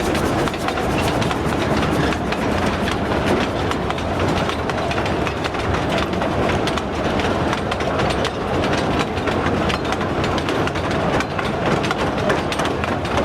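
A train running along the track: a steady rumble with a rapid, irregular clatter of clicks from the wheels on the rails.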